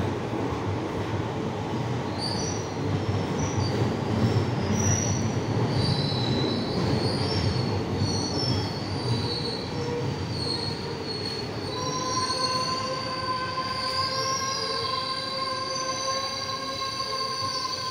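Jammu Tawi Express passenger coaches rolling slowly into a platform: a steady rumble of wheels on rails, with high-pitched squeals from the wheels and brakes. From about twelve seconds in, a steady squeal holds as the train draws in to arrive.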